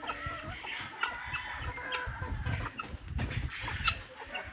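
Chickens clucking, a run of short scattered calls.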